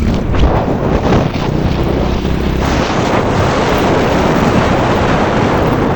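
Wind rushing over the microphone of a moving motorcycle, with the motorcycle's engine running underneath.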